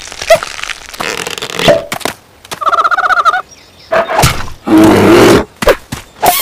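Cartoon sound effects and creature vocal noises: noisy swishes, a quick trilling high-pitched chatter about three seconds in, then a loud, rough cry around five seconds in, with short knocks in between.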